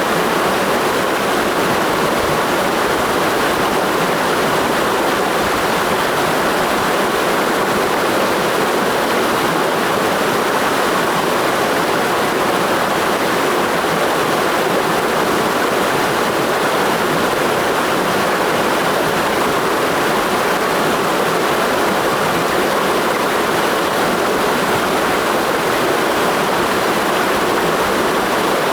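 Mountain stream flowing: a steady, even rush of water that holds constant with no breaks or changes.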